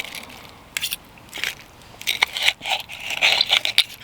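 A person chewing crunchy fried breakfast food, giving irregular crunches with short pauses between them.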